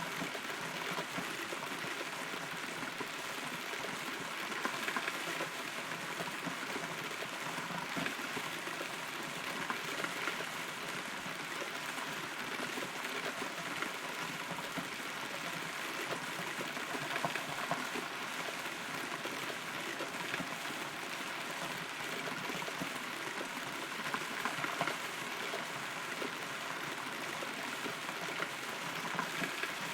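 Steady rain heard from inside a hollow rotten tree, with many small drops hitting the wood and leaves close around it.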